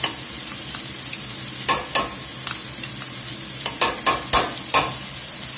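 Mushrooms and freshly added chopped shallots sizzling in olive oil in a stainless steel stockpot, with metal tongs clinking against the pot several times, mostly in the second half.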